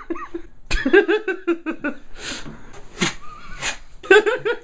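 High-pitched human laughter in rapid repeated bursts, broken by breathy gasps.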